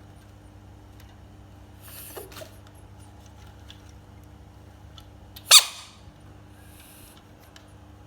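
A frog screams once, short and loud, about five and a half seconds in, after a fainter short sound about two seconds in, over a steady low hum.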